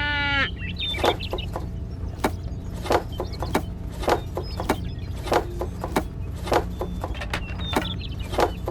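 Short sharp clicks or clucks at irregular intervals, about two a second, over a steady low hum.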